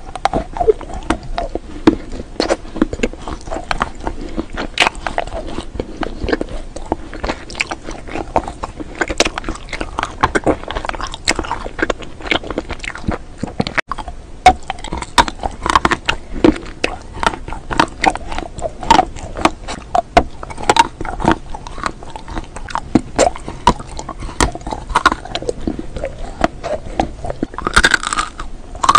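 Close-miked chewing and crunching of hard candy, full of sharp crackly snaps: bites into a colourful edible candy spoon and, near the end, a crisp crackly bite into a stick coated in tiny candy pellets.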